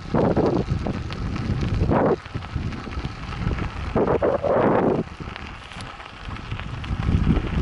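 Wind buffeting a head-mounted camera's microphone while cycling, a steady low rumble with louder gusts at the start, about two seconds in, and again between four and five seconds in.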